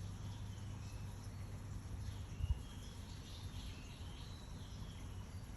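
Faint, short chirps of small birds with quick pitch slides, a cluster of them in the middle, over a steady low hum, with one brief low thump about two and a half seconds in.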